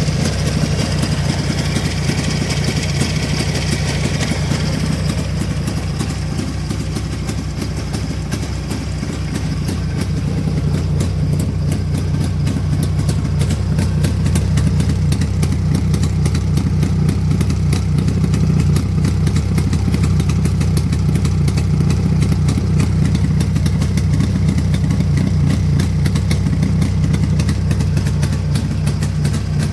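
Jawa 638.5 motorcycle's 350 cc two-stroke twin engine idling steadily, warmed up to operating temperature; the engine is nearly new, at 4,500 km. The idle grows a little louder about ten seconds in.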